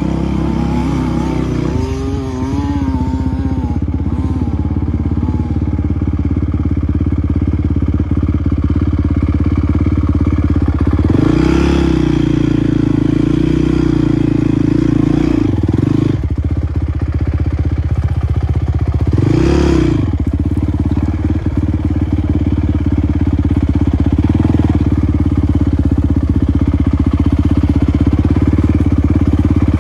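Motocross bike engine running steadily, with two sharp revs that rise and fall back, about a third of the way in and again about two-thirds of the way in.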